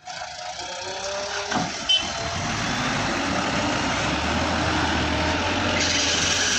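Heavy diesel machinery running, a steady engine rumble that grows stronger about four seconds in, with two sharp knocks a little before two seconds in.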